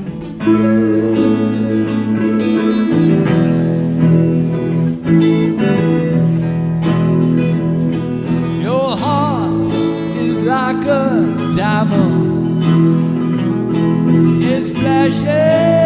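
Blues band playing live: strummed acoustic guitar over steady low bass notes. About halfway in, a lead melody of bending, wavering notes comes in over the top.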